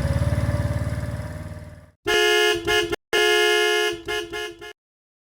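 Benelli Keeway 125 motorcycle engine idling and fading out. About two seconds in, a horn sounds: two long toots, then a few short beeps, and the sound cuts off abruptly.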